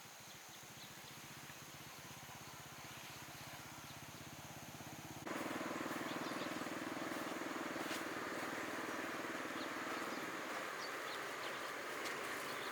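An engine running with a fast, even pulse, slowly growing louder, then abruptly much louder and fuller about five seconds in.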